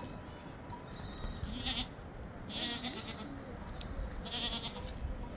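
Goats bleating several times, short high-pitched calls about three in all.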